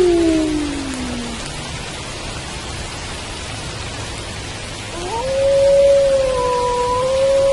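Wolf howling over steady rain: one howl slides down and fades in the first second and a half, then about five seconds in a new howl rises and is held high.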